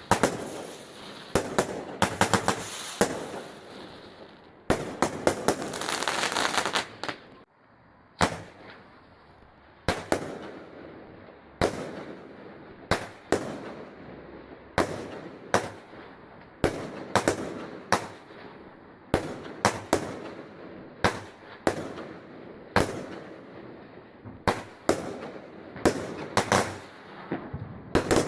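Fireworks going off: dense crackling volleys of bangs for the first seven seconds, then a string of single sharp bangs about once a second.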